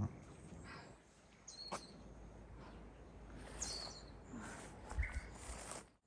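Wild birds calling in woodland over a faint, steady outdoor background: two short high calls, about a second and a half in and again about three and a half seconds in.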